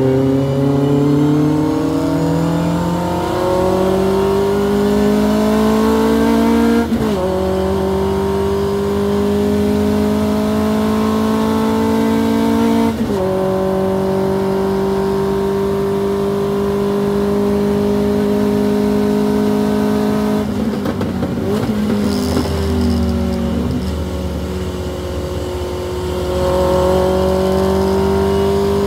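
Hillman Avenger race car's four-cylinder engine heard from inside the car, accelerating hard with the pitch rising in each gear and upshifts about 7 and 13 seconds in, then held at high revs. About 20 seconds in the revs drop as it slows for a corner, with a downshift, before pulling up again near the end.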